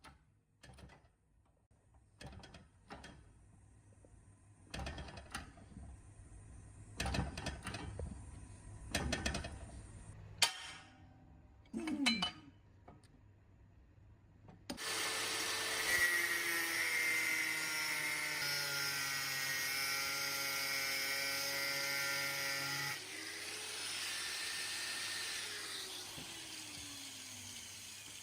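Scattered clicks and knocks of parts being handled, then a small electric power tool runs at speed for about eight seconds with a steady whine. It is switched off and winds down, its pitch falling.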